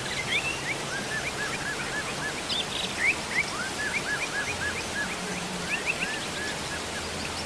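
Steady rain falling, with a bird calling over it in quick runs of short chirps, several a second, through most of the stretch.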